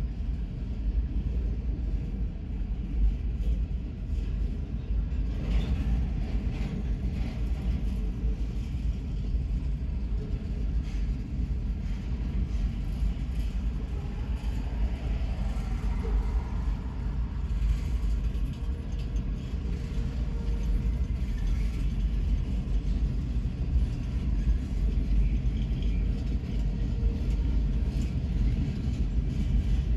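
Freight cars rolling past: a steady rumble of steel wheels on the rails.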